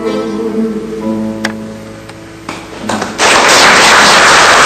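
Acoustic guitar's last chords ringing out and fading, with one more chord struck about a second in and a sharp click shortly after. About three seconds in, a loud, dense rushing noise cuts in suddenly and takes over.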